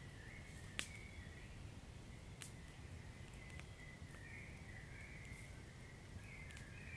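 Wood fire burning quietly: a low rumble with a few sharp crackles, the loudest pop about a second in, over a faint wavering high whistle.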